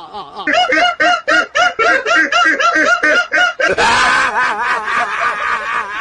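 A person laughing hard in a rapid run of high-pitched 'ha' bursts, about four a second. About four seconds in it turns into a fuller, more drawn-out laugh.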